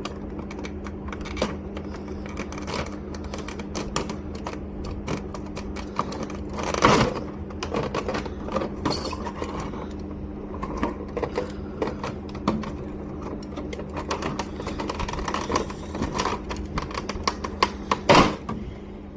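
Plastic figure packaging being handled and pulled open: a steady run of small clicks and crinkles, with two louder rips, one about seven seconds in and one near the end, as taped plastic comes apart. A steady low hum sits underneath.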